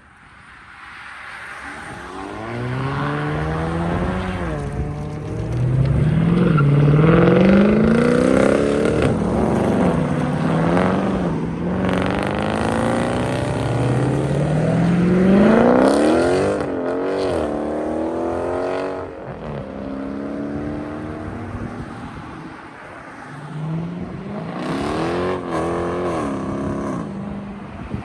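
Car engines accelerating hard: the pitch climbs and drops back at each gear change, over and over, loudest about seven seconds in and again around sixteen seconds.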